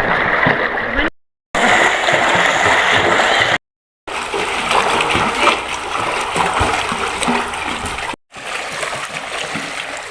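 Water splashing and churning, heard in several short clips joined by abrupt cuts to silence.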